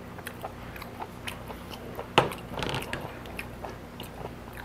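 Close-miked chewing and mouth sounds of raw beef being eaten, with small clicks of metal chopsticks against a plate; one sharper click comes about two seconds in.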